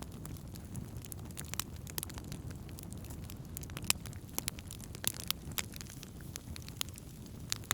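Wood campfire burning: a steady low rush of flame under frequent irregular crackles and pops of burning wood, with one sharp loud pop just before four seconds in.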